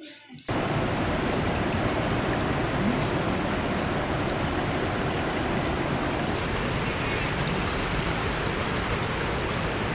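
Rushing water of the fast-flowing Teesta River, a steady loud roar that starts suddenly about half a second in.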